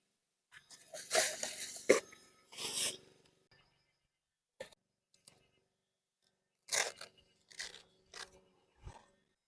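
Short bursts of crunching and rustling from tent gear being handled during pitching. One cluster comes about a second in and another near the end, with near silence between.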